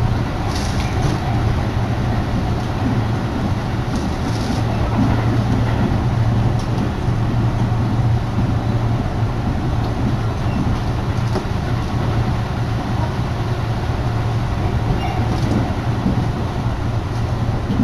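Tobu Urban Park Line commuter train running between stations, heard from inside the car: a steady rumble with a low hum throughout.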